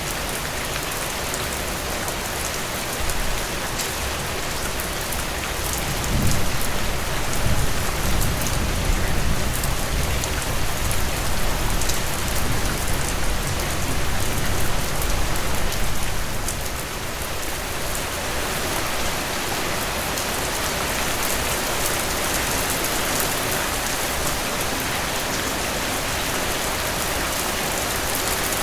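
Heavy rain pouring steadily in a dense, even hiss. A deep low rumble swells up about six seconds in and fades away about ten seconds later.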